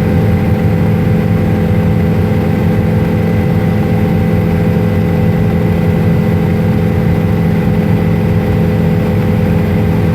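Helicopter in flight, heard from inside the cabin: a loud, steady drone of rotor and turbine with several fixed hums, unchanging throughout.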